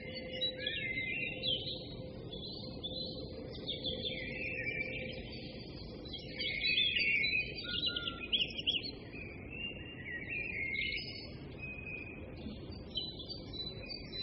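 Small birds chirping and twittering almost without a break, in quick high warbles and trills, over a faint low background rumble.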